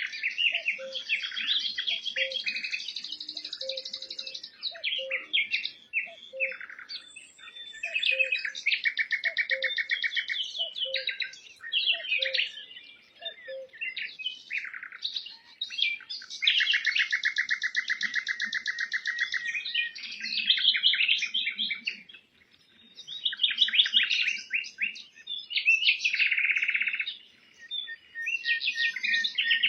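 Small birds chirping and trilling in busy, overlapping chatter, with rapid buzzy trills. A soft low note repeats about once a second through the first half.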